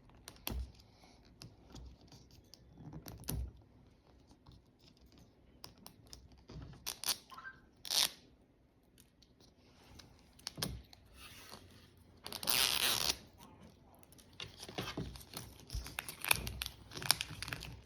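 Plastic wrapping on a Mini Brands surprise ball being handled and torn open: scattered crinkles and clicks, with a longer tearing rip about twelve seconds in.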